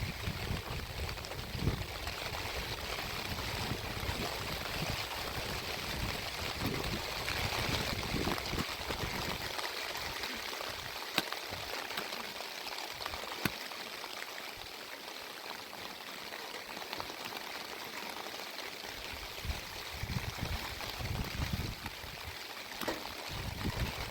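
Steady rain hissing down, with low rumbling for the first ten seconds or so and a few faint sharp ticks.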